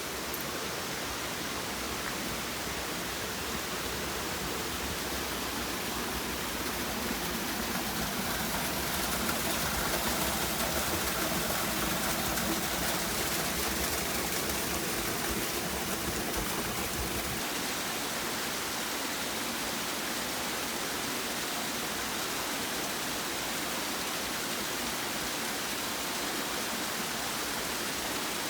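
Waterfall: a steady rush of falling water, a little louder for several seconds in the middle.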